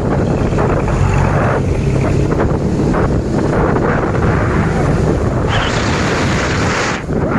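Medium truck's diesel engine running steadily, with wind buffeting the microphone. A loud hiss starts about five and a half seconds in and lasts over a second.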